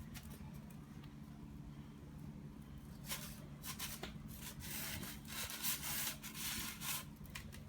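Irregular rubbing and rustling noises that grow busier from about three seconds in, over a low steady hum.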